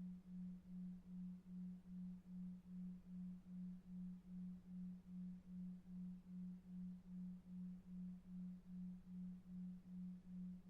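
Faint low pure tone pulsing evenly about two and a half times a second over a faint low rumble of brown noise: a 2.5 Hz delta-wave pulsed tone for sleep.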